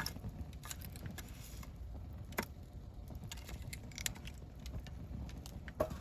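Wood campfire crackling, with scattered sharp pops, the loudest one near the end, over a low steady rumble.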